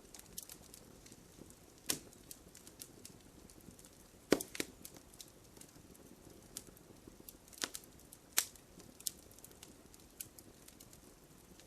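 Wood campfire burning: irregular crackles and sharp pops of burning wood over a faint low hiss, with the loudest pops a little over four seconds in and again around eight seconds.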